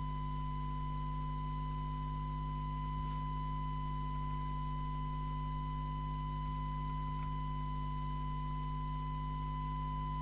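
Steady 1 kHz test tone reproduced by an FM CB radio's loudspeaker during receiver alignment, with faint overtones above it and a steady low hum underneath. The tone is the demodulated output of the test signal, still judged distorted while the IF sound stage is being set up.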